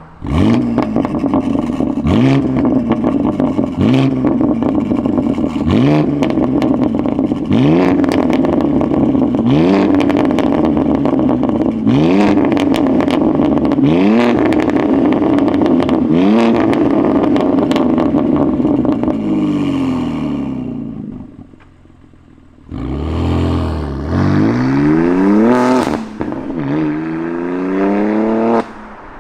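BMW G82 M4's twin-turbo straight-six running loud through its exhaust with the valves held fully open. The engine note climbs in repeated rising sweeps about every two seconds, then dies away about 20 seconds in. A few seconds later it comes back loud, rising and then falling in pitch.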